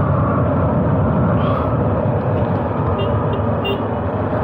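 Motorcycle riding along under way: its engine running steadily under a dense, even rushing noise.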